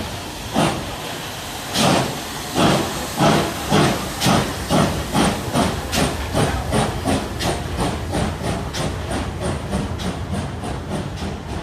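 FS Gr 625 steam locomotive starting away: exhaust chuffs over a steady steam hiss, the beats speeding up from about one a second to several a second as the train gathers speed, the first few the loudest.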